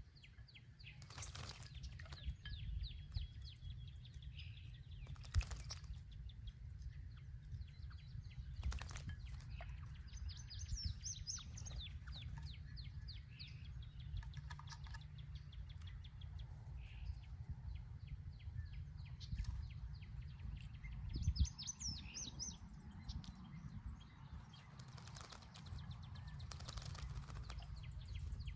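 Small songbirds chirping and twittering, with quick trilling runs about ten seconds in and again near twenty seconds, and a few brief splashes or wing flutters at a birdbath, over a steady low rumble.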